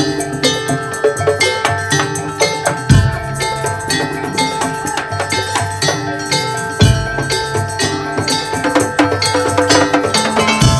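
Madurese tong-tong percussion ensemble playing: rapid wooden knocking over ringing metal tones, with deep drum hits coming in about three, seven and ten and a half seconds in.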